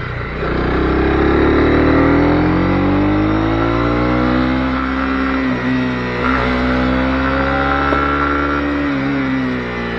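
Honda CB250R's single-cylinder four-stroke engine running under way. Its pitch climbs about half a second in, falls gradually over the next few seconds, holds steady, then rises again near the end.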